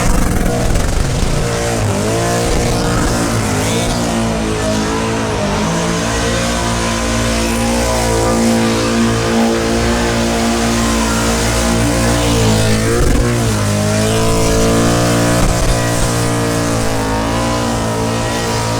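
V8 muscle car engine held at high revs during a burnout, dipping briefly a few times and climbing back, with the rear tyres spinning.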